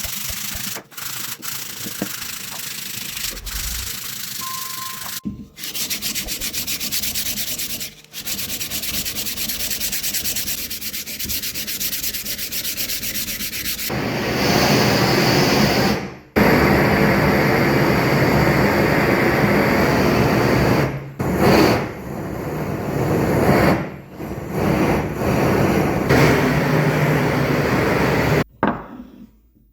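Sanding: a continuous rasping that stops briefly now and then and grows louder and fuller about halfway through.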